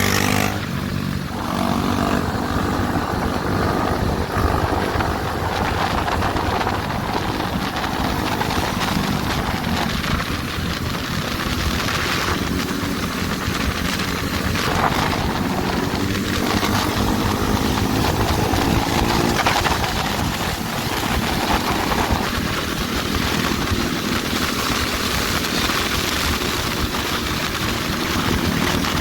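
Motorcycle engines running at riding speed, their pitch slowly rising and falling with the throttle, over a steady rush of wind noise.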